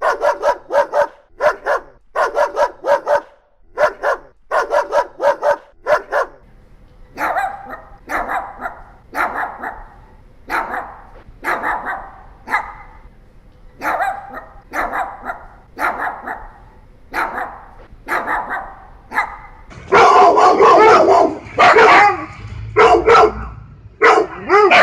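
Dogs barking in a run of separate recordings. First come quick, sharp barks in twos and threes. About six seconds in, a deeper bark takes over, repeated at a steady pace. About twenty seconds in, louder, rapid barking begins.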